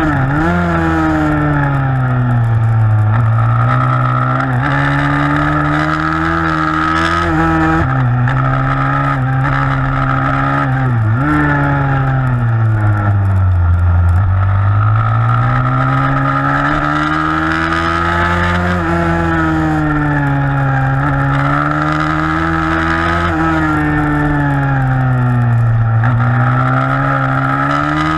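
A 160 cc pit bike's single-cylinder four-stroke engine running hard under race load. Its revs rise and fall continuously as it accelerates and backs off through the corners, with a few sudden dips in pitch.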